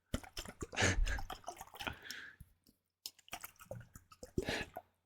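Liquid worked close to a microphone: a rapid run of wet clicks in two spells, with a short pause near the middle.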